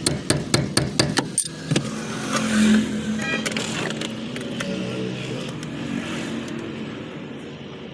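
Rapid, even tapping strikes, about four a second, stop abruptly about a second and a half in. They give way to a steady motor-vehicle sound, an engine hum with road-like noise.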